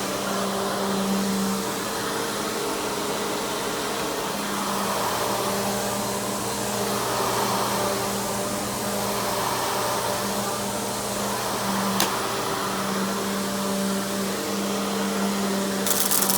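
Simplicity Symmetry Deluxe SYMDL.2 upright vacuum's 12-amp single-stage motor running steadily, with a single sharp click about twelve seconds in and a brief burst of hiss near the end.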